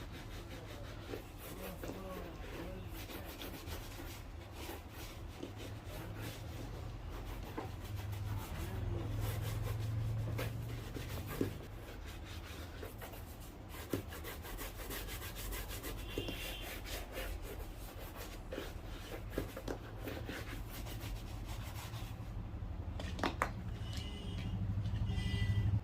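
Quick, repeated rubbing strokes on a shoe as it is cleaned and polished by hand, a continuous scratchy scrubbing with a few sharper ticks, over a steady low hum.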